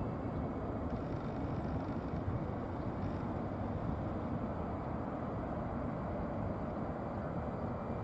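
Steady low rumble of jet aircraft engines at an airport, with no distinct events.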